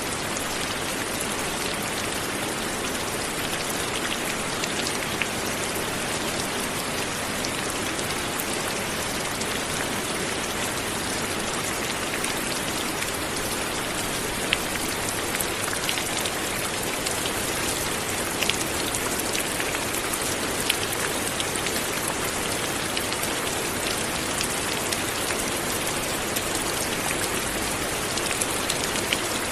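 Light, steady rain falling, a dense even hiss with the ticks of individual drops hitting a surface.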